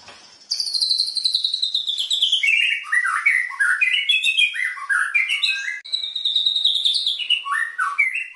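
Caged songbird singing loudly and continuously. A long whistled phrase falls from high to low pitch, then comes a run of varied quick chirps, and a second falling phrase near the end.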